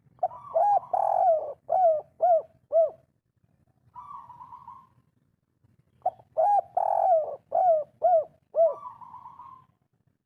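Spotted dove (derkuku) singing its 'kuk 3' song twice. Each phrase is a run of cooing notes that ends in three short separate 'kuk' notes, followed by a longer, softer note.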